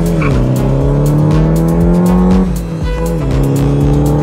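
Turbocharged SR20 four-cylinder engine in a Hakosuka Nissan Skyline revving hard under acceleration. Its pitch climbs steadily, drops at a gear change about two and a half seconds in, then climbs again.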